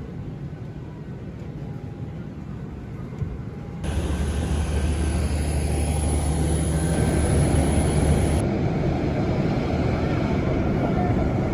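Steady jet airliner noise, a rumble with a roar above it, changing abruptly about four seconds in and again about eight seconds in. The louder middle stretch carries a thin high whine.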